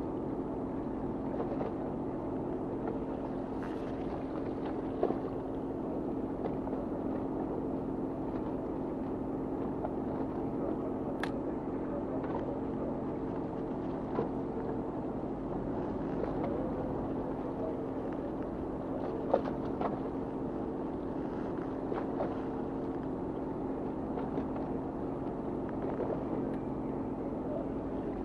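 Fishing boat's engine running steadily, a constant hum under the deck, with a few brief knocks, two of them sharper, about five and nineteen seconds in.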